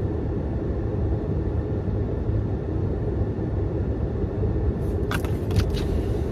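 Car engine idling in park, a steady low rumble heard inside the cabin, with a few short sharp clicks about five seconds in.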